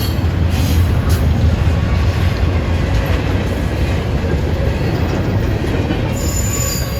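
A CSX freight train rolling past close by: a steady loud rumble of wheels on rail, with a high wheel squeal near the start and again near the end.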